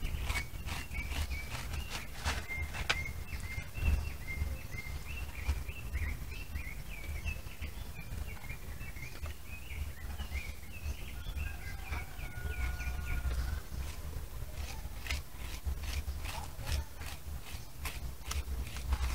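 A small bird chirping over and over in short high notes, dense for the first half and sparser later, over a low rumble of wind on the microphone and scattered clicks.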